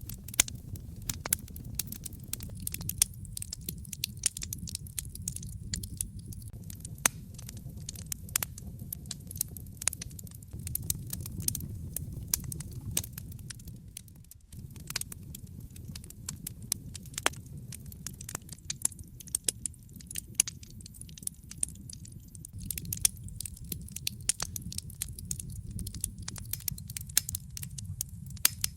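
Wood fire crackling in a fireplace: frequent sharp pops and snaps over a steady low rumble of the flames, with a brief drop in level about halfway through.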